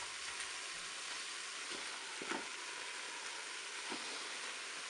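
Chicken pieces sizzling in oil in the bowl of a Cookeo multicooker on its browning setting: a steady frying hiss. A few light taps come through it, the clearest a little past two seconds in, as the spaghetti is pressed down into the bowl.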